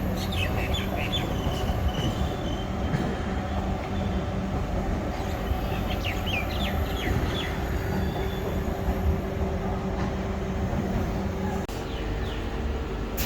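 Vande Bharat Express electric trainset running on the track with a steady low rumble. Short high wheel squeals come about half a second in and again around six seconds in.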